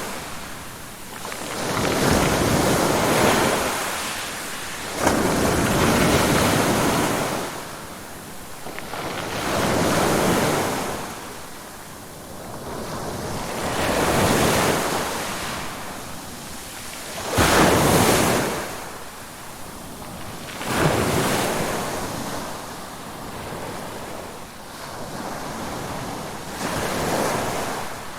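Ocean surf: waves breaking and washing up one after another, about seven in turn, each swelling and falling away over three to four seconds, a few coming in with a sudden crash.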